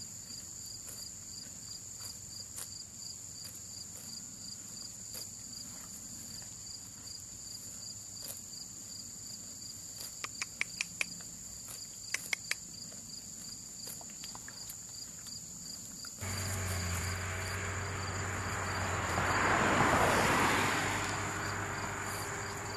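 Insects chirping steadily in a high, evenly pulsing trill, with a few sharp clicks about halfway through. Near the end a louder rushing noise comes in suddenly, swells and eases off.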